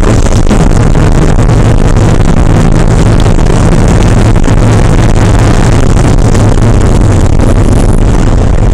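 Porsche 968's 3.0-litre inline-four engine running loud at fairly steady revs, with a dense rushing noise over it.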